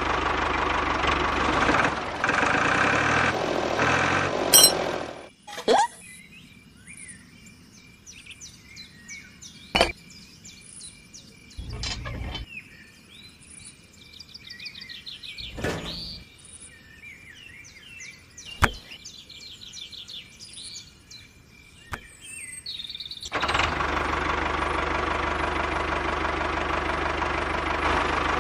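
A small diesel engine runs steadily, then cuts off suddenly about five seconds in. Birds then chirp, with about five sharp clacks as small toy parts are handled and set down. The engine sound starts again abruptly near the end.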